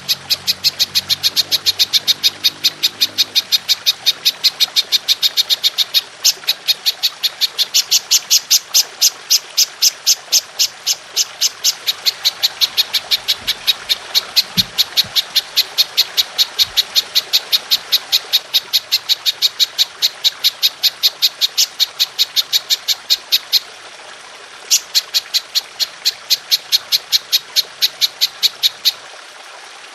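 Belalang emas (golden grasshopper) calling: a long, rapid train of sharp high-pitched chirps at about five a second, breaking off briefly about three-quarters through and stopping near the end, over a steady trickle of water.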